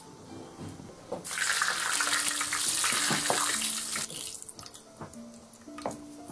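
Food sizzling loudly as it hits a hot iron wok, a hiss that starts about a second in and dies down about three seconds later. Light metal spatula scrapes and taps follow, over soft background music.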